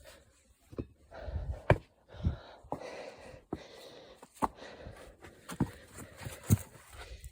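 A hiker breathing hard on a climb, with irregular footsteps and scuffs.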